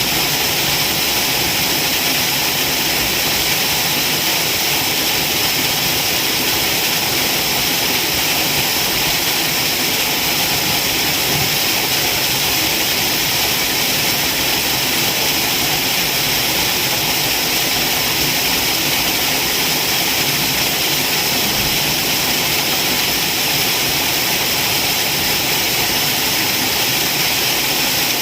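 Waterfall: water pouring and splashing in a loud, unbroken, even rush.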